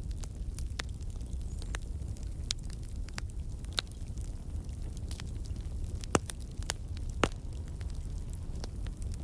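Wood campfire crackling: irregular sharp pops from the burning logs, a few louder snaps among them, over a steady low rumble of the fire. The pops are moisture and sap in the wood turning to steam and escaping.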